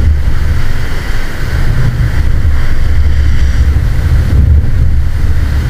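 Wind buffeting the microphone in a heavy low rumble, over the steady wash of ocean surf.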